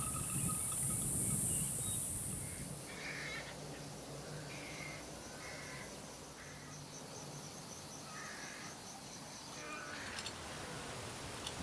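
Crows cawing outdoors, several short separate caws a second or two apart, over a steady high hiss that drops away about three seconds in.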